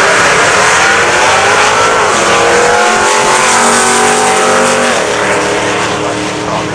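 Drag racing car's engine running hard down the strip, its pitch climbing and dropping several times as it shifts through the gears.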